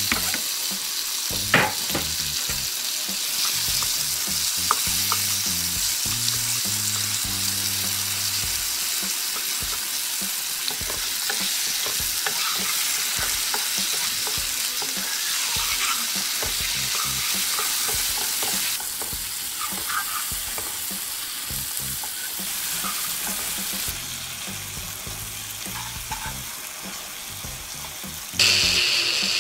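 Potatoes, peas, corn and tomato sizzling in hot oil in a nonstick wok, stirred with a wooden spatula that scrapes and taps against the pan now and then. Near the end a louder, higher hiss cuts in suddenly.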